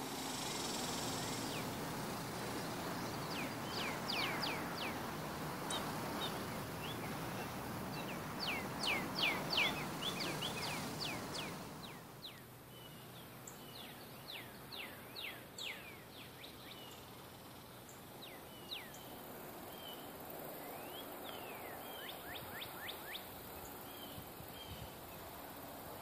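Songbirds singing: runs of quick, down-slurred whistled notes and short chirps over a steady rushing background, which drops away about twelve seconds in.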